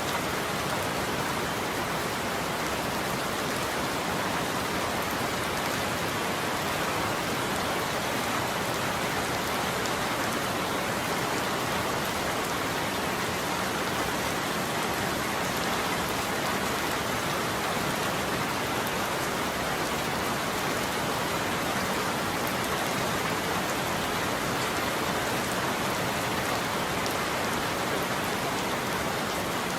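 Steady heavy rainfall, an even hiss of drops pattering on a surface, with no thunder.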